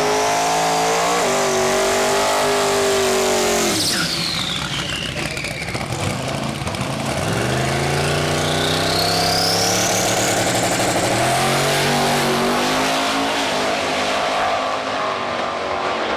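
Twin-turbo 427 LSX V8 accelerating hard through the gears, with a high turbo whine over the engine. The engine drops off about four seconds in, with the whine falling, then pulls again from about seven seconds with the whine rising, and shifts again a few seconds later.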